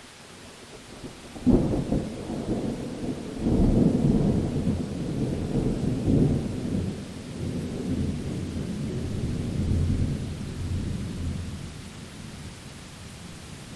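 A thunderclap over steady rain. A sharp crack comes about a second and a half in, then a long rolling rumble swells again and slowly fades away over about ten seconds, leaving the even hiss of the rain.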